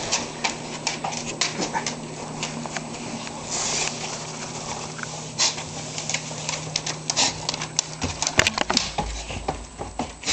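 A dog sneezing in a bout: many short, sharp sneezes, with a longer hissing one about three and a half seconds in.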